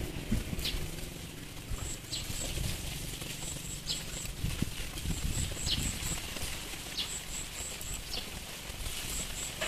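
Small birds chirping outdoors: short runs of high, quick chirps, with single short falling chirps every second or two, over a low rumble.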